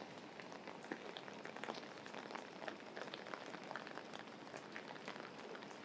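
Steady rain falling, a soft even hiss with many separate drops ticking through it.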